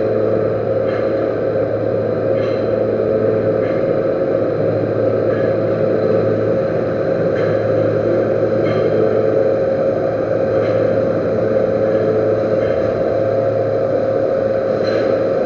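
Metal-turning lathe running steadily, with a constant hum and a steady whine, and faint ticks coming every second or two.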